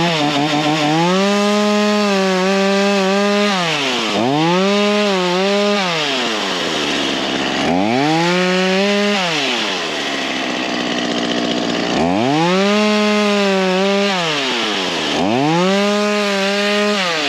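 Ryobi 37cc two-stroke gas chainsaw revved up to high speed five times, the engine falling back toward idle between bursts, with a longer drop about two-thirds of the way through.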